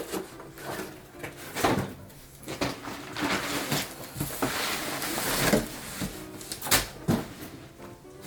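Scattered knocks and clatter of things being handled, with a stretch of rustling, hissy noise in the middle.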